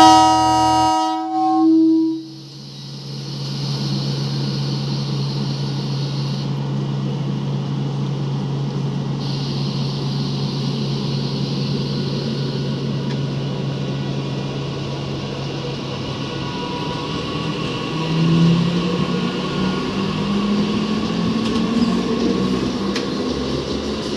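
Sealdah–Kalyani Simanta EMU local train sounding a short horn blast, then running steadily with a rumble and hiss of wheels on rails. A whine rising in pitch appears about three-quarters of the way through.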